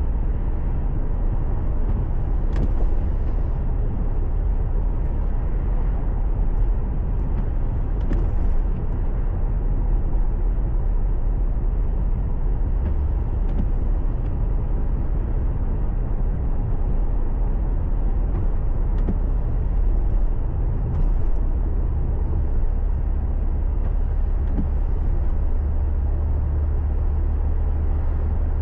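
Steady low rumble of a car driving, the tyre and engine noise of the moving vehicle, with a few faint clicks.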